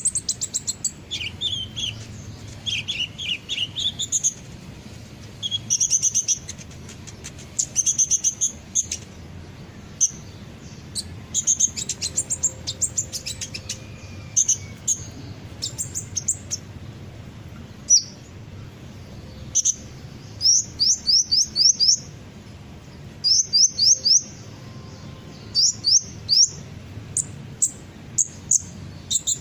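Sunbird song: bursts of rapid, high, thin chirps and trills, with runs of quick falling notes in the second half.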